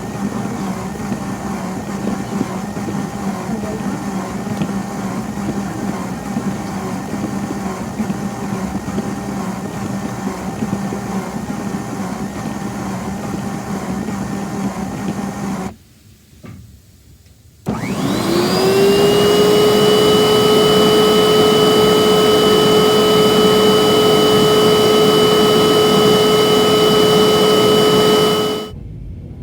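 Bissell vacuum cleaner motor running steadily. About halfway it cuts off, and a vacuum motor spins up with a quickly rising whine that settles into a steady, louder high-pitched whine, then stops just before the end.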